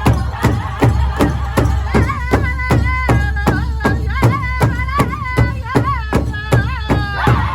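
Powwow drum group beating a large drum in a steady beat of about three strokes a second while the men sing a high, wavering traditional song for men's traditional dancers.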